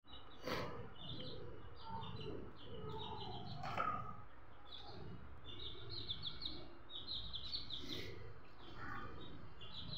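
Birds chirping in quick runs of short, high chirps, on and off throughout. A few brief knocks, one of them as a young chicken hops down into a plastic basket.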